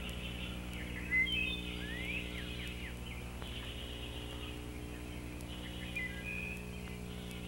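Birds chirping, with a few short sweeping calls about a second in and again around six seconds, over a steady low hum.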